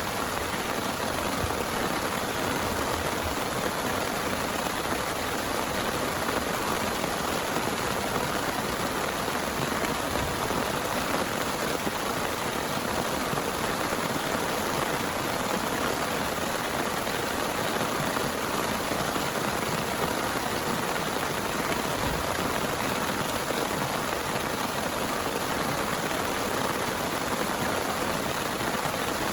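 Heavy rain pouring steadily, an even hiss that does not let up.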